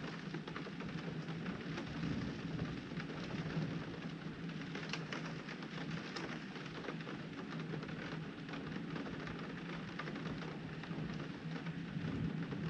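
Heavy rain beating on a window pane: a steady hiss dotted with many small drop impacts on the glass, over a steady low hum.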